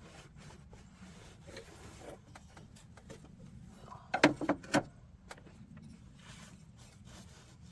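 Tools and parts being handled during work on a car's fuel line: scattered light clicks and a quick cluster of sharp knocks and clacks about four seconds in.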